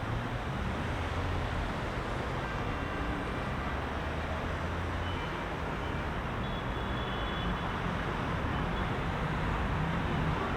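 Heavy rush-hour city traffic: a continuous wash of car engines and tyre noise, with low engine hum swelling slightly near the end.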